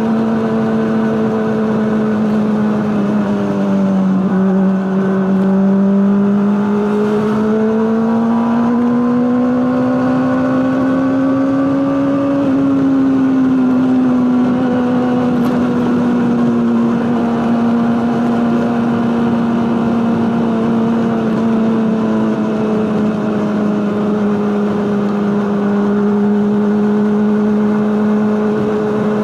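Honda CBR600RR inline-four engine running through an aftermarket Akrapovic exhaust at a steady, even note. Its pitch dips about four seconds in, climbs slowly for several seconds, then eases back and holds steady.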